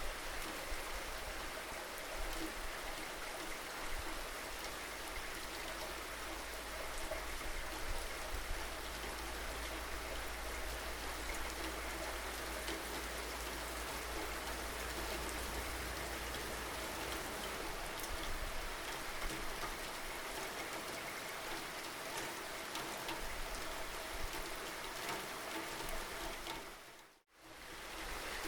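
Steady rainfall with raindrops pattering on surfaces, an even hiss with many small drop ticks. Near the end it dips briefly to silence and comes straight back.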